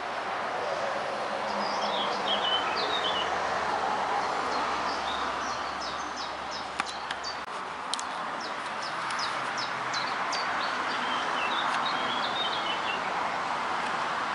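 Small songbirds chirping and singing in several short runs, over a steady outdoor background hiss. Two sharp clicks come near the middle.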